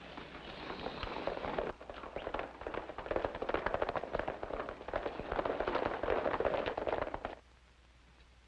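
Horses galloping, a dense clatter of many hoofbeats that swells, dips briefly, swells again and cuts off suddenly near the end.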